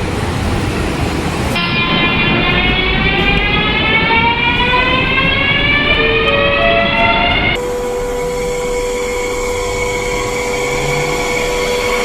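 Electric train running. Its motors whine in several tones that rise steadily in pitch as it accelerates, with a few short stepped tones near the end of the rise. About seven and a half seconds in, it cuts to a steady whine over rail rumble.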